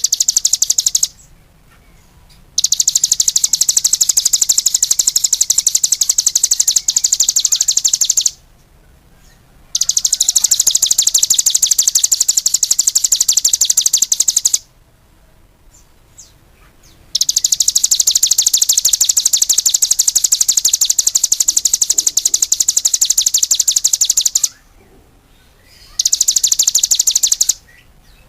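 A songbird singing long, very rapid high-pitched trills, each lasting several seconds, with short pauses between them. The recording is a masteran song-tutor track for caged songbirds.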